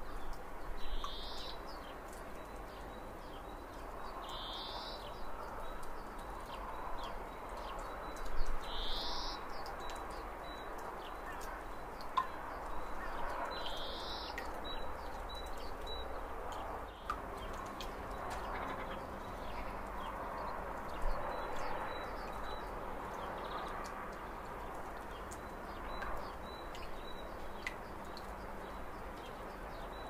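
Birds calling: four short high calls spaced a few seconds apart in the first half, over a soft steady hiss.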